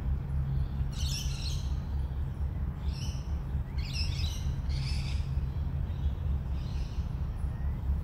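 Several birds calling in short, high, chirping bursts, about five calls in all, over a steady low rumble.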